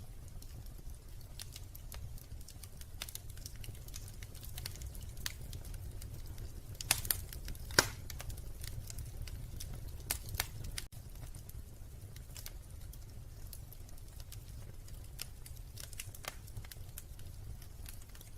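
Wood fire crackling in a fireplace: irregular small snaps and ticks, with a few louder pops about seven to eight seconds in and again around ten seconds, over a steady low rumble.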